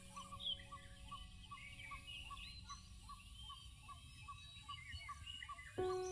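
Birds calling: a steady run of short repeated chirps, about two or three a second, with other scattered calls above them. Near the end a louder, held tone with a pulsing beat starts suddenly.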